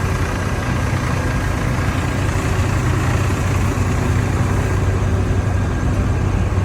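Farm stock pulling tractor engines idling with a steady, even low hum.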